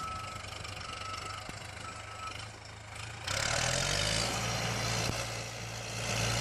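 Vehicle engine idling with a beeping tone about once a second. About three seconds in, the engine revs up with a rising pitch and a sudden loud hiss starts, typical of tyres spinning in deep snow as a stuck vehicle tries to pull free.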